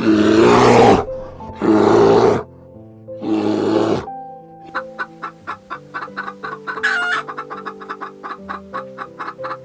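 Chickens calling: three loud calls in the first four seconds, then quick clucks about five a second, over background music.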